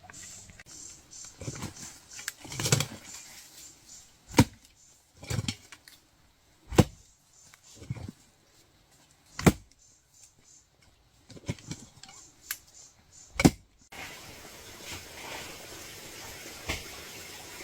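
Digging tool striking into earth: a series of heavy, irregularly spaced chops with lighter knocks between. About fourteen seconds in it gives way to a steady hiss.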